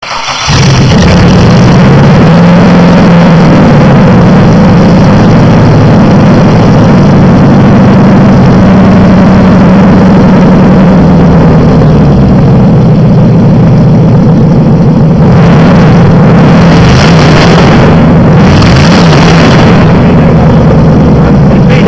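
Chevrolet Vortec 5.3 V8 racing engine running loudly on a test stand, with a few short bursts of revving in its last few seconds.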